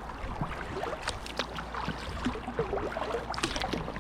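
Kayak paddle strokes in the water: scattered small splashes and drips, irregular, over a steady low rumble.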